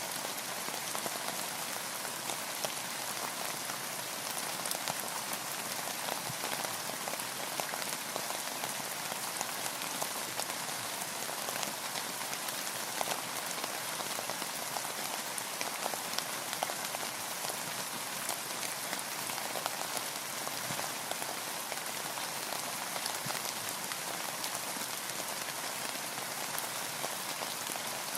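Steady rain falling on a boat: an even hiss with a dense scatter of individual drops ticking.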